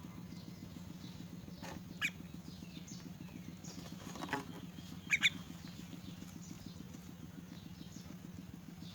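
A young myna giving a few short, sharp calls: one about two seconds in, another about four seconds in, and a quick double call just after five seconds, the loudest of them. A steady low hum runs underneath.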